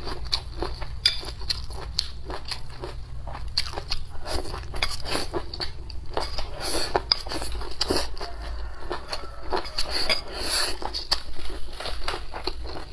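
Close-miked chewing of a mouthful of kelp salad and rice: a quick, irregular run of wet crunches and mouth clicks.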